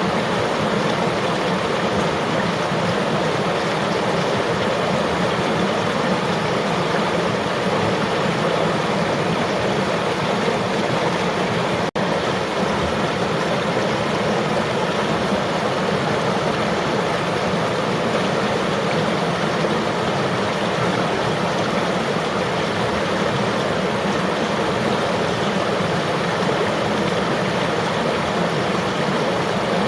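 River water flowing and rushing in a steady, even wash, with a split-second break about twelve seconds in.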